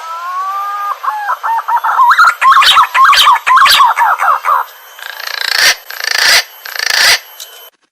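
Green pigeon (punai) calling: a long rising whistle, then a run of quick warbling whistled notes. About five seconds in come a few short bursts of rustling noise.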